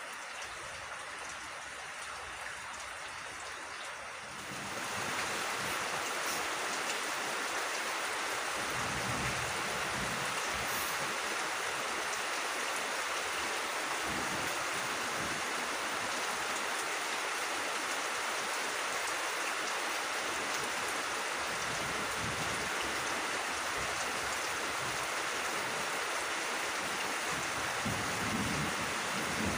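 Steady rain falling, growing louder about four seconds in and then holding even.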